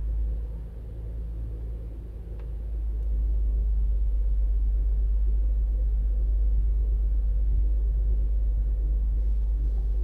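Toyota Avalon engine at a fast cold-start idle around 1,200 RPM, a steady low rumble that grows a little louder about three seconds in. It runs evenly, with no misfire shake that the mechanic can feel now that the injectors have been cleaned.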